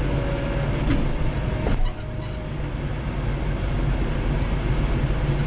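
Kubota L3940 compact tractor's three-cylinder diesel engine running under load, heard from inside the cab, with a steady low drone. A single sharp click comes just under two seconds in, and the engine sound eases a little right after it.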